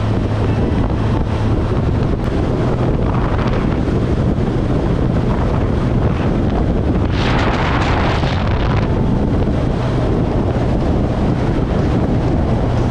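Wind rushing over the microphone on top of the steady drone of a Kawasaki Z1000SX's inline-four engine while riding. The wind noise surges louder about seven seconds in and again near the end.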